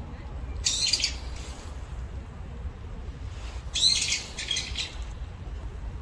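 A songbird calling in two short bouts of rapid, high chirps, the first about half a second in and the second about three seconds later, over a steady low rumble.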